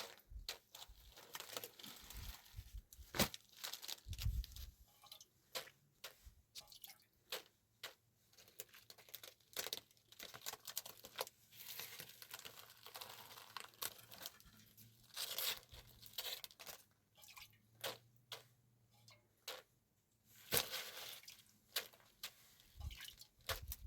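Irregular crunching, rustling and tearing sounds of something being handled up close, with scattered sharp clicks and a few soft low knocks near the start.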